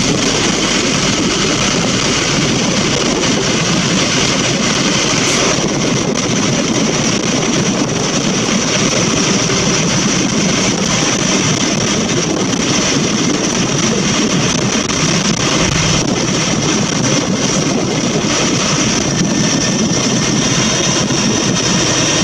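Scania N230UB single-deck bus under way: a steady engine drone mixed with road and tyre noise, holding an even level.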